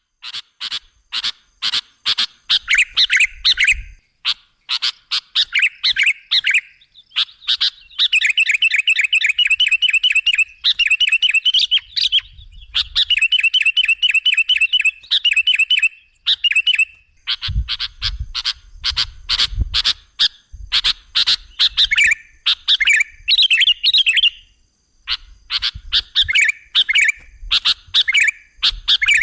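Sooty-headed bulbul (kutilang) calling: sharp chirps broken by runs of quick repeated notes, about six a second, in the middle.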